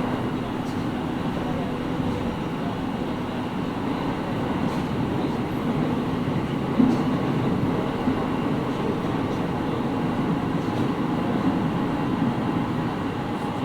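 Interior running sound of a JR East 701 series 5500-subseries electric multiple unit, heard inside its motor car: a steady rumble of wheels on rail under a constant hum, with faint scattered clicks. There is one sharper knock about seven seconds in.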